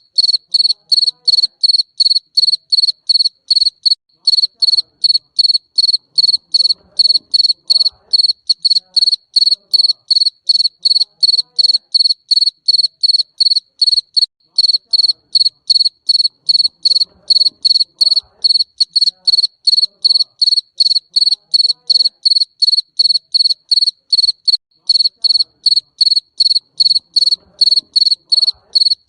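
Garden cricket chirping: one high, clear chirp repeated evenly about three times a second without a break.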